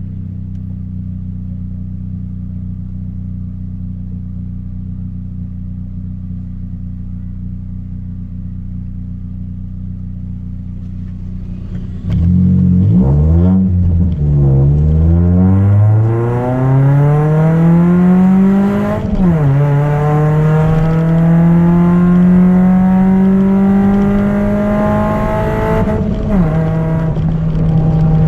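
Chevrolet Celta 1.0 four-cylinder, fitted with a 4x1 header and a two-inch exhaust without mufflers, idling steadily. About twelve seconds in it is revved a couple of times, then accelerates with a rising pitch. The pitch drops sharply twice at upshifts and holds steady near the end.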